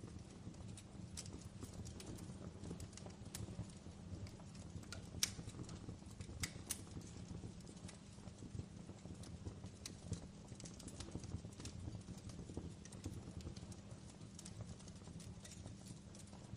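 Wood fire crackling in a fireplace: irregular sharp pops and snaps over a low steady rumble, with two louder pops about five and six and a half seconds in.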